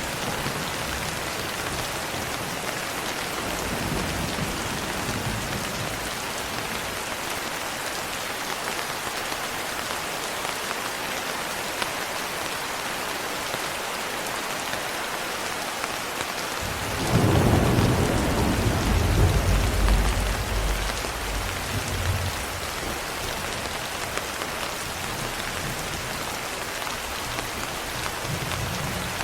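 Steady rain falling and pattering. Just past the middle a roll of thunder comes in suddenly and rumbles for about five seconds before fading, with fainter low rumbles near the start and the end.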